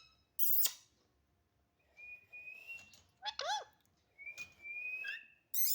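Pet parrot whistling: two high whistles, each held about a second and rising slightly at the end, with short harsh squawks near the start and end and a brief call between the whistles.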